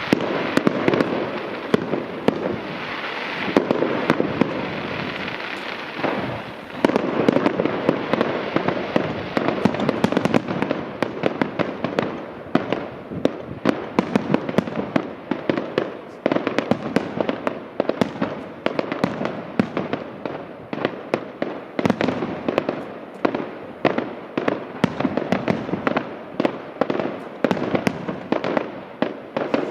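Continuous fireworks display: a dense crackling wash of bursting shells, giving way from about a third of the way in to a rapid, uneven run of sharp bangs, several a second.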